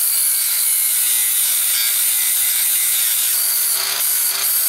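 Power grinder grinding away weld on a rusted exhaust joint, a steady harsh grinding with the motor's pitch shifting slightly a few seconds in.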